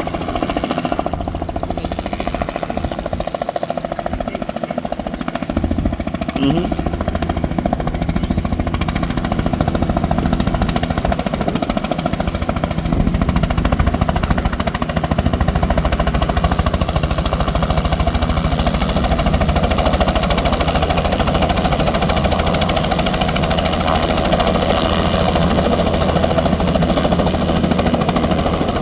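Helicopter rotor chop and engine noise, a rapid steady beat that grows louder about a third of the way through as the helicopter comes in to land.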